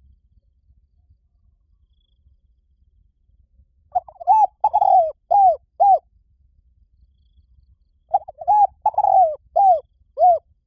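Spotted dove cooing: two phrases of about five short coos each, the first about four seconds in and the second about eight seconds in, with quiet between them.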